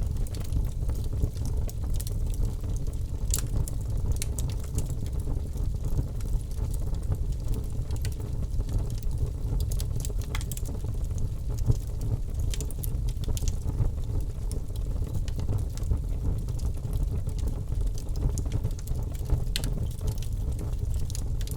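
Campfire burning with a steady low rumble and frequent sharp crackles and pops from the burning wood.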